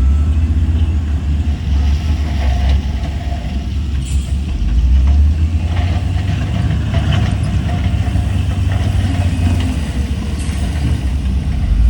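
Heavy diesel engine of earthmoving machinery running steadily with a deep rumble, with a few light knocks through the middle.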